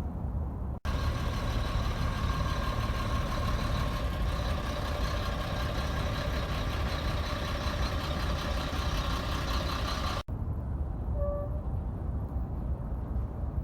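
A truck's diesel engine running, heard as a steady low rumble. About a second in, a sudden cut switches to a louder stretch with a steady whine over the rumble. Near the ten-second mark another cut returns to the low rumble.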